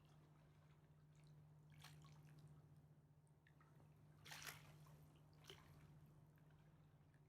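Faint river water lapping and dripping at the shore of the Mississippi River, with a few small splashes, the strongest about four and a half seconds in, over a low steady hum.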